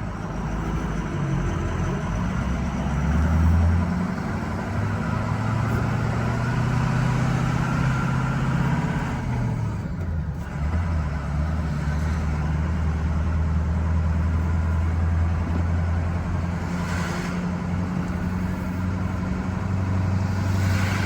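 Ford 6.0-litre Power Stroke V8 turbodiesel pickup running under way. The engine note rises and falls, swelling about three seconds in and dipping and changing pitch about ten seconds in.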